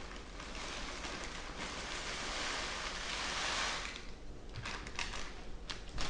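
Stirring in a mixing bowl: a scraping, rustling noise that builds and then fades, followed by a few short clicks near the end.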